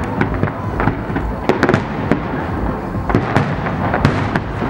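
Fireworks display: a rapid, irregular run of bangs and cracks from aerial shells and comets over a continuous low rumble, with the densest bursts about a second and a half in and again past three seconds.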